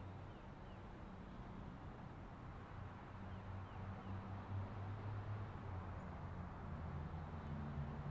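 Low, steady rumble of a car engine running, growing slightly louder toward the end, with a few faint bird chirps.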